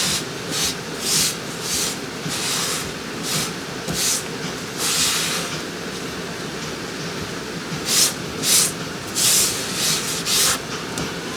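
Scouring pad scrubbing in short, irregular strokes over a steady hiss.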